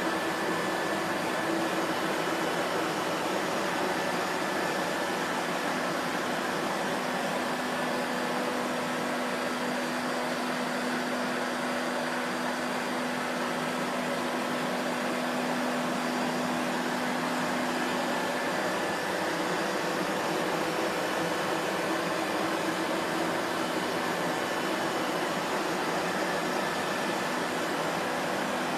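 Vacuum cleaner motor running steadily, a continuous rushing noise with a faint hum that strengthens slightly in the middle.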